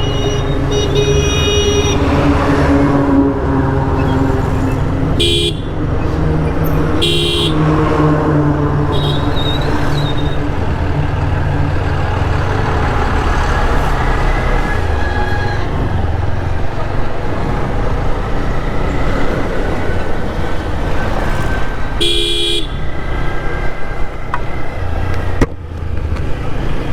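Motorcycle riding along a road, its engine and road noise running steadily, with a vehicle horn sounding in three short blasts: about five seconds in, about seven seconds in, and about twenty-two seconds in.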